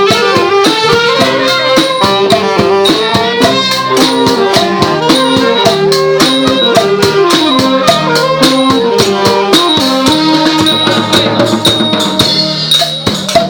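Thai trae wong brass band playing: a wind melody over a steady beat of drums and cymbals.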